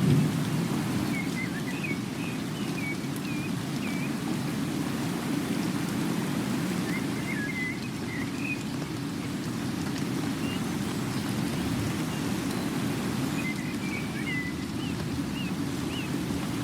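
Steady rushing sound of falling rain, with a small bird chirping in three short runs of quick notes.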